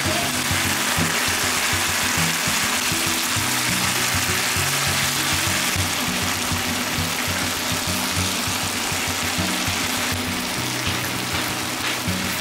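Chicken pieces sizzling in hot oil in a frying pan, a steady hiss, under background music with a low bass line.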